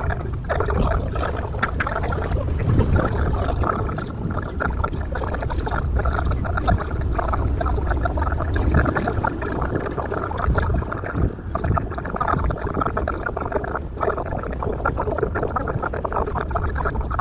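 Sightseeing boat under way, its engine, water wash and wind on the microphone sped up tenfold into a dense, jittery rumble with a constant fast chatter over it.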